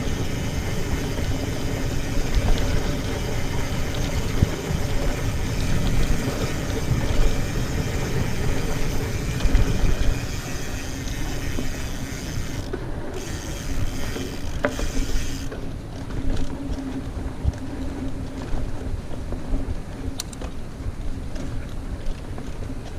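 Mountain bike ridden fast along a dirt trail: wind rushing over the camera microphone and tyres rumbling over the ground, with a steady buzz like a rear freewheel hub coasting. The rushing thins out about fifteen seconds in.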